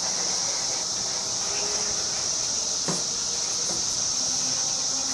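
Steady high-pitched chirring of crickets, with a single sharp click about three seconds in.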